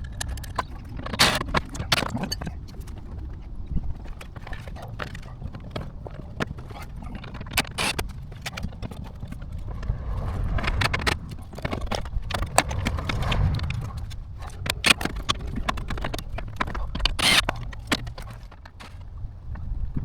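Irregular knocks, clinks and clatters of hand tools and metal parts being handled during work on a car, with a few louder clatters and a steady low rumble behind.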